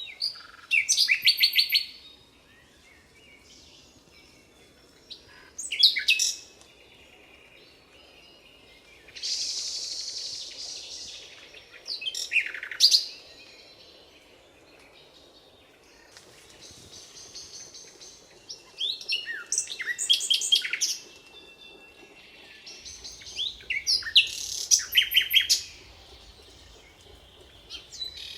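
Songbirds singing: short trilled and chirping phrases repeating every few seconds, with quieter calls between them.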